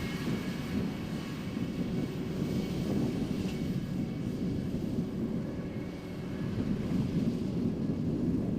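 Vermeer ZR5 1200 self-propelled baler running steadily, its engine a continuous drone that dips slightly about six seconds in.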